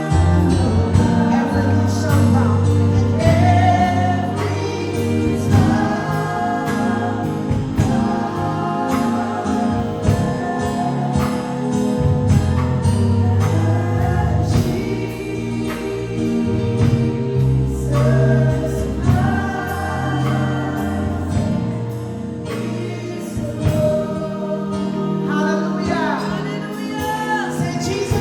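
Live gospel worship music: a band with bass and drums playing steadily under sustained chords, with voices singing wordless or unrecognised lines over it.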